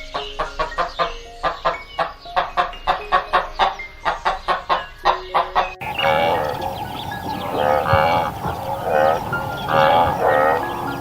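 A quick run of rapidly struck music notes, then a sudden cut about six seconds in to a series of repeated animal calls, several short wavering cries a second apart.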